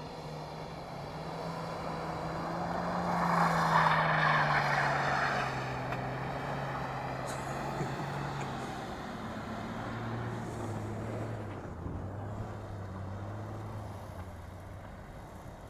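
BMW E30 and E34 car engines running at steady high revs as the cars drift on snow, the engine note slowly falling in pitch. A rush of noise swells about three to five seconds in as a car comes nearer, then eases.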